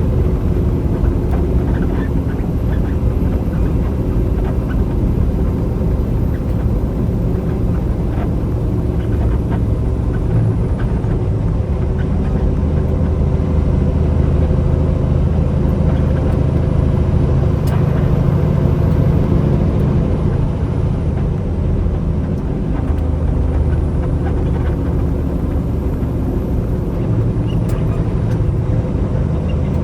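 Semi truck under way: a steady low engine drone mixed with road noise, holding level throughout.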